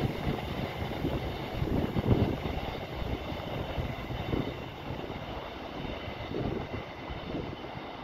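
Freight train's wagons rolling away along the track: a steady rumble with irregular wheel knocks, slowly fading as the train recedes.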